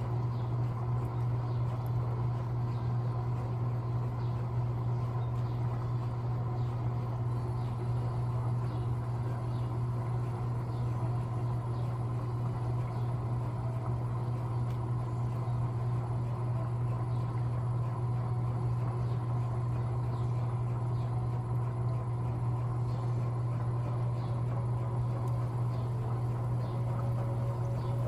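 Electrolux LTA15 washing machine running mid-cycle with a steady low hum.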